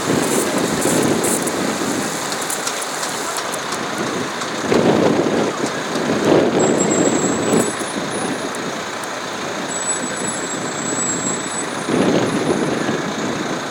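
Fire hoses spraying water onto a fire engine, a steady rushing hiss over running fire-truck engines, surging louder several times.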